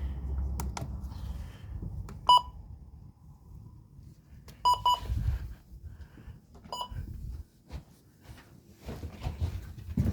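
Short electronic beeps from a weather alert radio: a single beep about two seconds in, a quick double beep near five seconds, and another near seven seconds, over low knocks and rumbles of the radio being handled.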